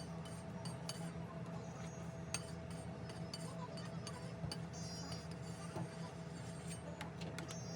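Scattered light clinks over a steady low hum.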